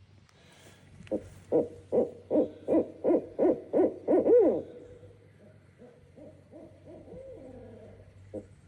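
Recorded Barred Owl call played through a Bluetooth speaker: a rapid run of about nine hoots ending in a long, falling hoot. Fainter wavering calls follow near the end.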